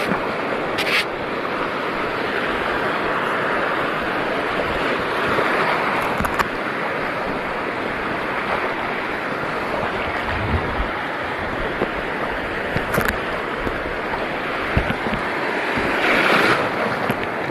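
Steady wash of sea water and surf, with wind on the microphone and a few short sharp clicks or splashes.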